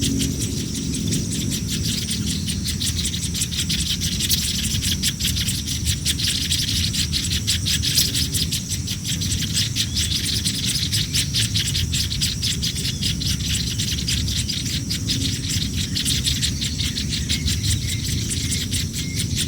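Nestling birds begging for food: a rapid, continuous stream of high-pitched chirps from hungry chicks, over a steady low rumble.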